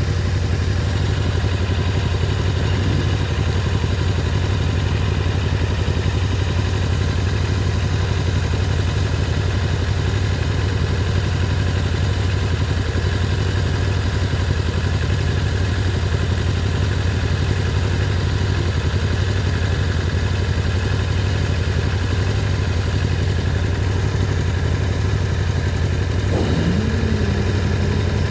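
Motorcycle engine running steadily under way, a constant low drone. Near the end a brief tone rises and then holds level.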